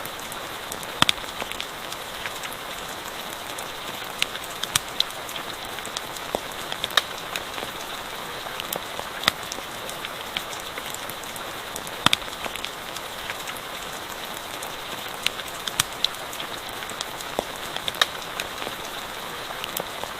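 Steady rain falling, with irregular sharp pops and crackles of a wood campfire scattered over it.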